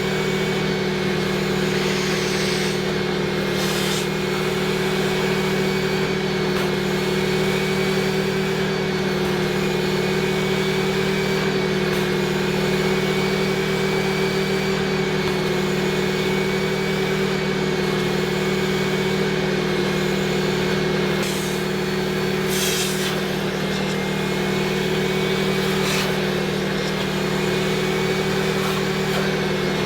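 Electric vacuum motor running steadily with a high whine over a low hum. Its pitch wavers slightly, and there are a few brief rushes of air noise.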